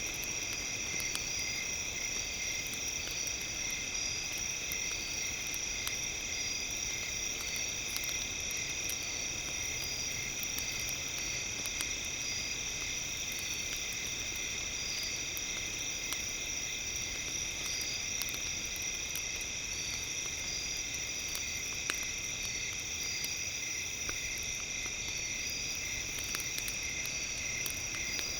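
Steady high-pitched synthetic tones in several bands, some pulsing on and off, layered over a crackling campfire with scattered small pops.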